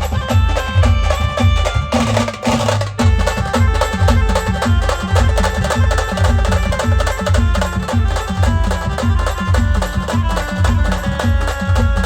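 Band music for dancing: a fast, steady drum beat with a melody played on top, a brief break a few seconds in.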